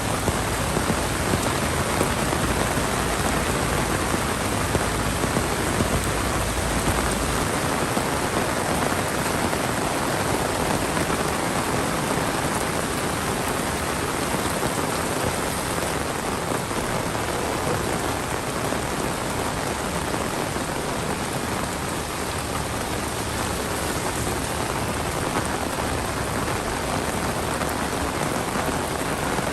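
Heavy monsoon rain falling steadily, a dense even hiss of rain on surfaces, with a low rumble underneath that stops about seven seconds in.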